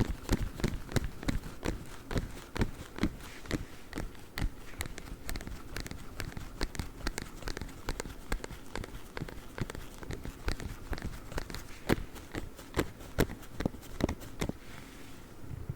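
Claw-tipped gloves tapping and scratching quickly, a fast irregular run of sharp clicks, several a second. The clicks thin out and stop just before the end.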